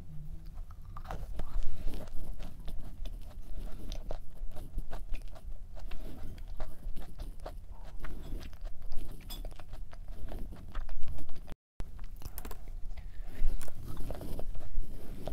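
Close-up biting and chewing of a thick, soft-baked Levain-style cookie studded with nuts: a bite at the start, then steady chewing with many small irregular crunches. The sound drops out for a split second near the end.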